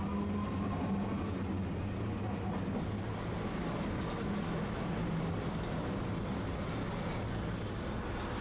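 Tosaden streetcar running on street track, heard from inside the car: a steady low hum from the motors over a continuous rumble of wheels on the rails.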